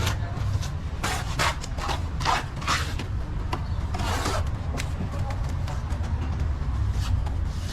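Plastering trowel scraping and rubbing across a wall in irregular strokes, over a steady low hum.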